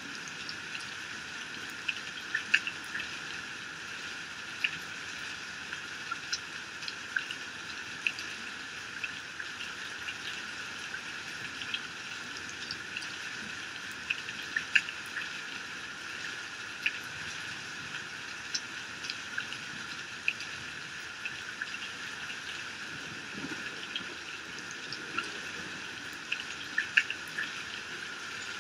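Heavy rain falling steadily and pouring off a roof edge, a dense even hiss with sharp drops and splashes ticking out at irregular moments.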